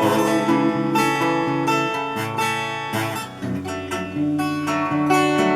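Acoustic guitar strummed in a steady rhythm, playing the instrumental break of a country gospel song with no singing.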